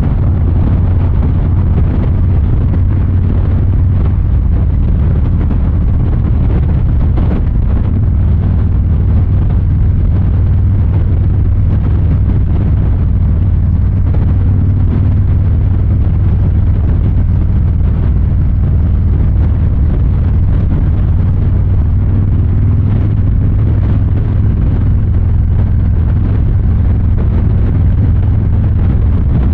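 2023 Harley-Davidson Fat Boy 114's Milwaukee-Eight 114 V-twin engine and exhaust running steadily at an even pitch, with no marked revving.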